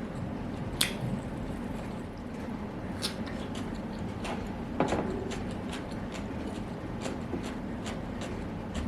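Eating sounds: wet chewing and mouth smacks with scattered small clicks, the sharpest about a second in and near five seconds, over a steady low background.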